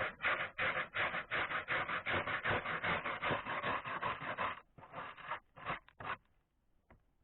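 Rapid back-and-forth scraping, about four strokes a second, as old dried-up caulking is rubbed and scraped off the roof; the strokes slow and stop about six seconds in.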